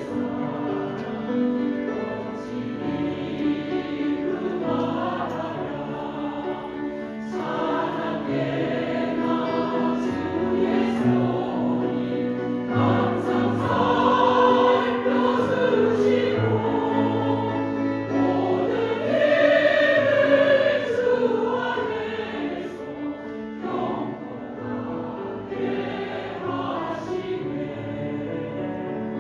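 Choir singing a Christian praise hymn with instrumental accompaniment.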